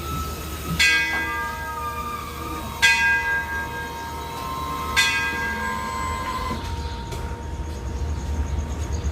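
Station hand bell struck three times, about two seconds apart, each strike ringing out. This is the usual Thai railway departure signal. Under it runs the steady low rumble of the waiting diesel train.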